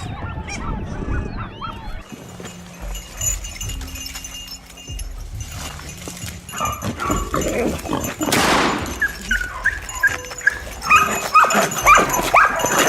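Dogs barking and yipping in quick, repeated short calls, growing denser and louder in the second half.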